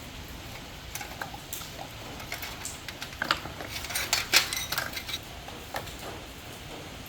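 Light metallic clicks and clinks of metal tools and parts being handled, coming thickest between about three and five seconds in.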